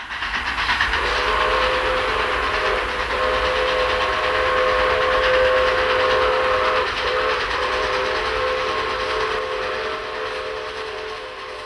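Train sound effect: a running train's steady rush and rumble, with its whistle sounding a chord in long blasts, broken twice briefly, and fading near the end.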